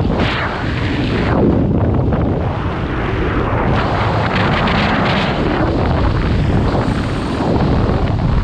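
Loud wind buffeting the microphone, a gusting rush that swells and eases.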